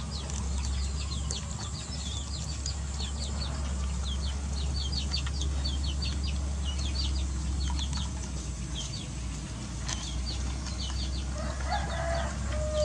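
Birds chirping in many quick, short, high notes, with a lower call about a second before the end, over a steady low hum.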